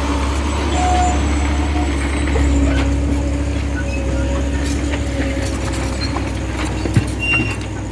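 Heavy diesel engine running steadily with a deep low rumble, with a few sharp knocks, the loudest about seven seconds in.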